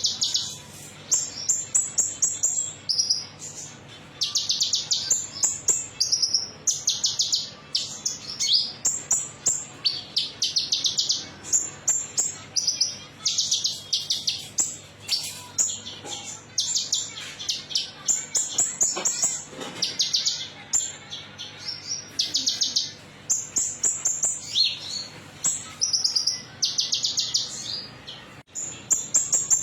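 Konin songbird singing a metallic-sounding song: short, rapid high-pitched trilled phrases repeated about once a second with brief pauses between them. It is a lure recording played to prompt caged birds to sing.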